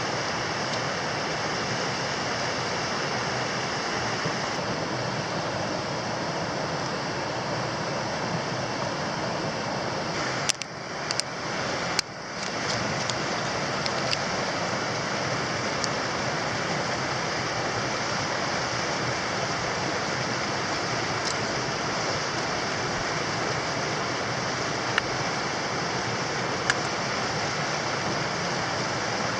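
Steady rushing noise of water. Around ten seconds in it dips for about two seconds with a few sharp clicks, and a couple of faint clicks come near the end.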